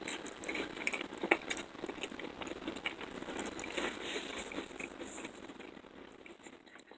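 Soft, irregular clicks and crackles from food and a plate being handled close by, fading toward the end.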